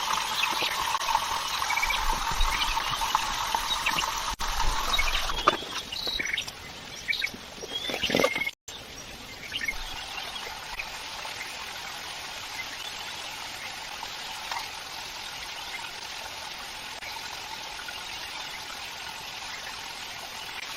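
Flowing stream water, a steady rushing trickle. About halfway through, a few short sharp knocks and splashes break in. After an abrupt cut, a quieter steady flow of water continues.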